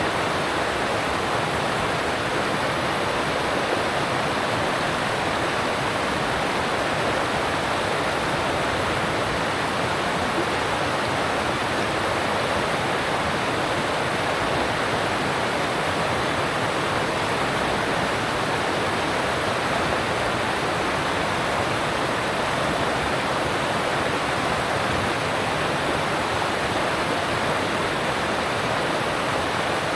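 Alpine stream water rushing steadily over rocks, an even, unbroken rush.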